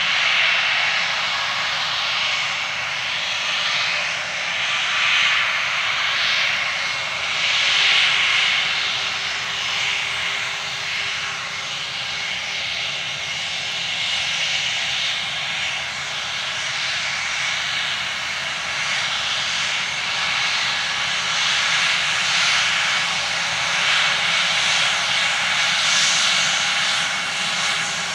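Jet engines of an Airbus A320 airliner running: a loud, steady rushing whine that swells and eases every few seconds.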